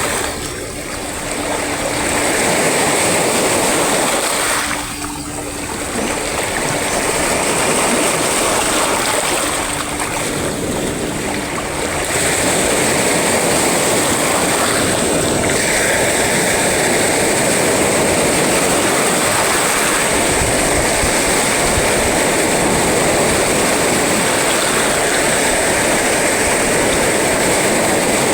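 Sea waves breaking and washing ashore: a continuous rushing wash, with brief lulls about a second in and around five seconds in, then holding steady.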